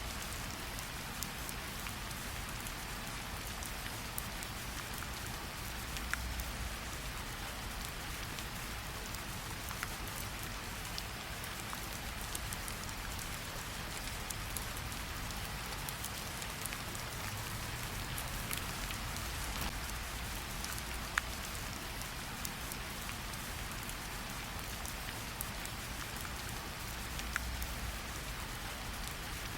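Steady rain falling on leaves and ground, with scattered sharper ticks of single drops.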